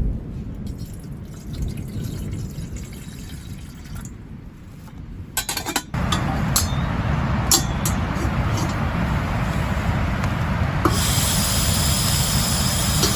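Rain with a low wind rumble, heavier and fuller from about halfway, with a few sharp taps around the change and a high hiss added near the end.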